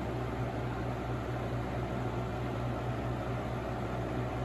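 Holmes HABF-20 box fan running steadily on medium speed: a constant low motor hum under the even rush of air from the blade.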